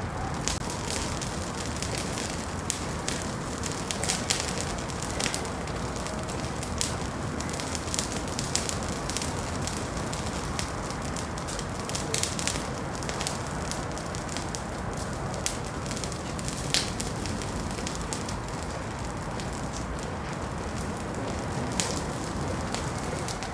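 Wood fire burning in a fireplace, with a steady hiss and many irregular sharp crackles and pops.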